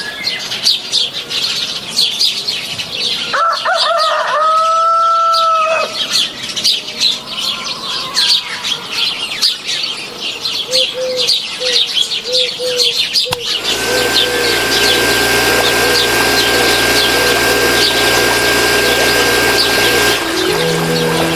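Many small birds chirping continuously in a dense, fast chatter. About four seconds in there is one held call lasting about two seconds. Roughly two-thirds of the way through, a steady hum with a constant high tone joins the chirping.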